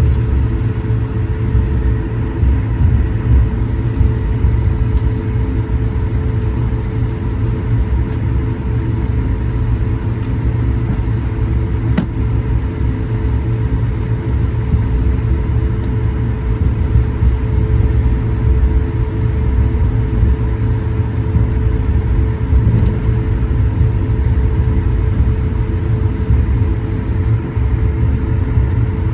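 Cabin noise inside an Airbus A220-100: a steady low rumble with an even hum from its Pratt & Whitney PW1500G turbofans and air system, holding level with no spool-up. One short click about twelve seconds in.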